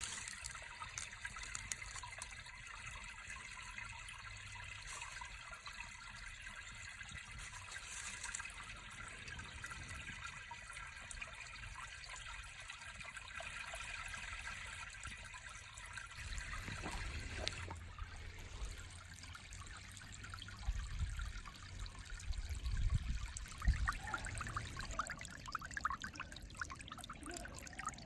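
Mountain valley stream running and trickling over rocks, a steady rush of water. In the second half, low rumbles and a few knocks join it.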